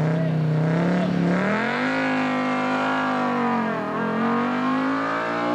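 Rally car engine pulling hard away from the start, its note climbing, dropping at a gear change about four seconds in, then climbing again.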